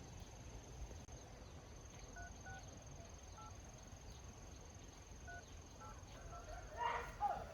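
Telephone keypad tones as a number is dialled, a few short beeps spread over several seconds, over a steady high trilling of crickets or other insects. A brief louder sound, likely a voice, comes near the end.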